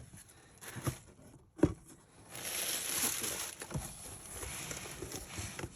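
A cardboard parcel being opened by hand: a single sharp knock about a second and a half in, then packaging rustling and crinkling.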